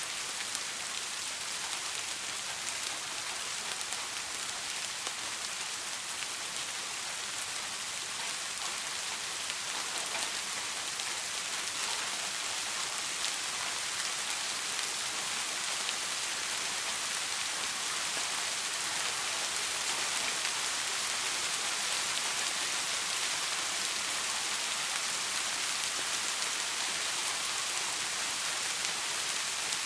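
Steady soft rain falling, an even hiss with scattered faint drop ticks, growing slightly louder through the middle. No thunder is heard.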